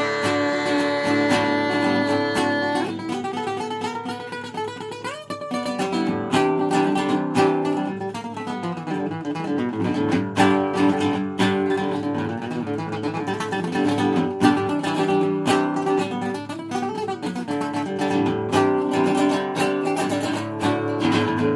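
Instrumental break of a country song: acoustic guitar strumming chords with a steady rhythm, no singing.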